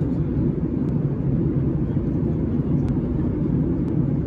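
Steady low rumble of a Boeing 737-800's cabin in flight, engine and airflow noise heard from a passenger seat. It cuts off abruptly at the end.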